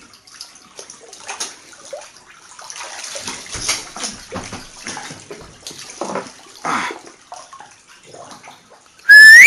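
Floodwater sloshing and splashing in irregular surges as a person wades through it indoors. About nine seconds in comes a very loud rising whistle-like tone lasting about half a second.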